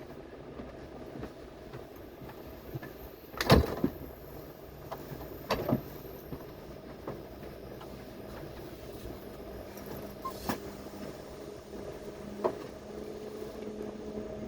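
Train running, heard from inside the passenger car: a steady rumble and hum, with a sharp knock about three and a half seconds in and fainter knocks later on.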